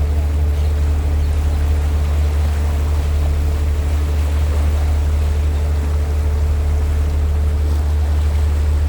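River cruise boat's engine running with a steady low hum and a faint steady higher tone, over an even rush of water along the hull.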